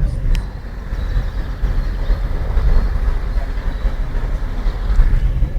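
Steady low rumble and running noise of a moving vehicle, heard from inside it, with a faint thin whine above and a small click about a third of a second in.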